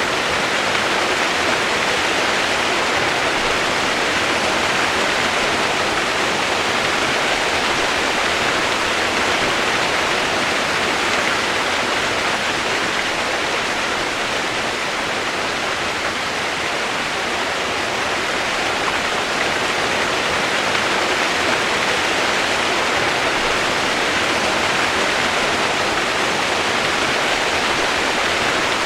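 Steady rushing water, an even unbroken hiss with no change in level.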